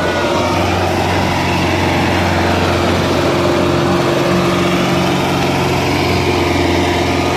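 Solis tractor's diesel engine running steadily at a constant speed.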